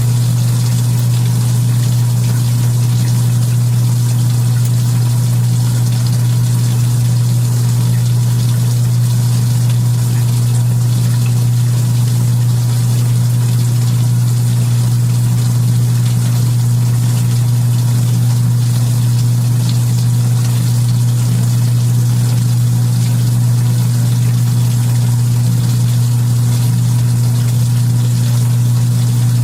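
Kenmore belt-drive portable washing machine running mid-cycle: a steady, unbroken low motor hum with water hissing over it.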